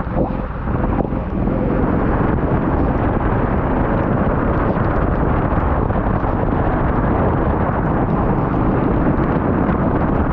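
Steady, loud rumble of an off-road vehicle running, mixed with wind buffeting the microphone.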